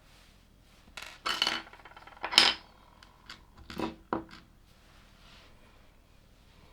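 Plastic LEGO pieces clattering and clicking as they are handled, in three short bursts, the loudest about two and a half seconds in.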